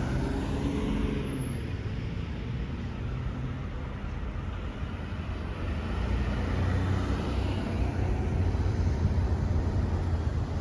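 Steady road traffic noise from passing vehicles, with a low engine hum growing louder in the second half.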